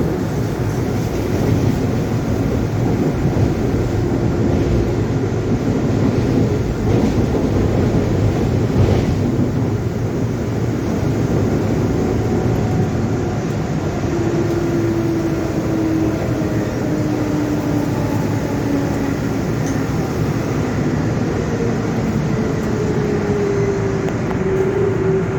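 GE Dash-9 diesel-electric locomotive standing and running with a steady engine rumble. A faint tone climbs slowly in pitch over the second half.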